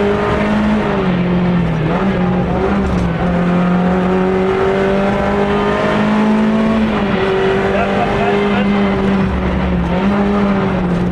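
Rally car engine at speed, heard from inside the cockpit, loud and continuous with road and cabin noise; the revs dip and climb again several times.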